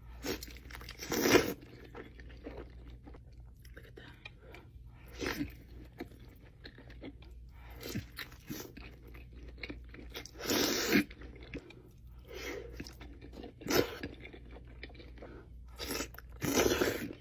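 Close-miked mukbang eating of crispy fried chicken wings: a loud crunching bite every few seconds, about six in all, with quieter chewing between them.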